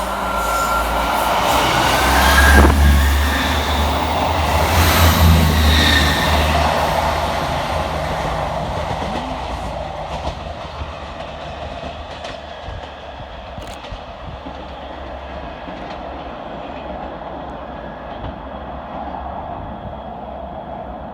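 Two coupled ScotRail Class 158 diesel multiple units going by with their diesel engines droning and wheels running on the rails. The sound is loudest a few seconds in and then fades slowly as the train moves away.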